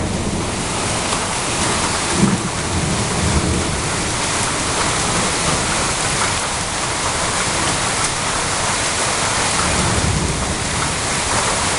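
Heavy rainstorm pouring down steadily on dense foliage, a loud, even hiss of rain with a low rumble underneath.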